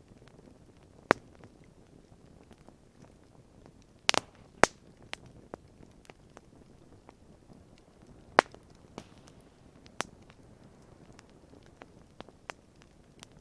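Wood fire crackling, with sharp pops at irregular intervals over a faint low hiss; the loudest pops come about a second in, a cluster just after four seconds, and one a little past eight seconds.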